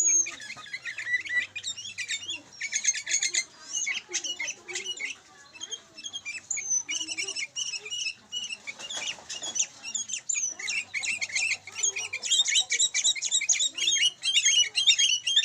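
A pair of sooty-headed bulbuls (kutilang) calling to each other in a quick, chattering run of short notes, with brief lulls.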